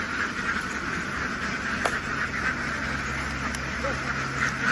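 A large flock of domestic ducks quacking and chattering all at once in a dense, steady din, with a low engine hum rising beneath it about a second in.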